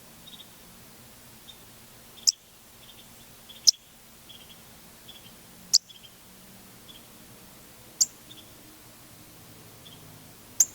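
Songbird giving five short, sharp, high-pitched chirps, loud and spaced unevenly about every two seconds, with faint softer chirps between them.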